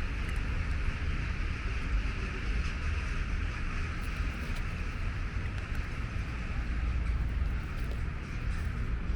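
Steady outdoor street ambience: a low rumble of traffic with a constant hiss over it.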